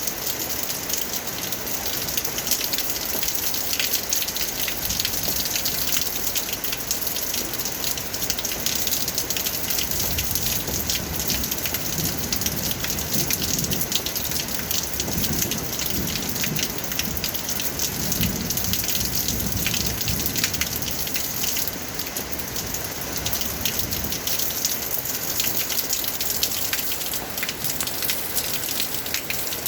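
Steady heavy rain falling, a dense patter of drops hitting a surface, with a low rumble swelling and fading in the middle stretch.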